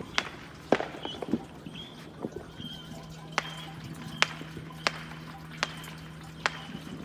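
Neighbourhood fireworks going off at a distance: sharp single pops at irregular intervals, about a dozen of them.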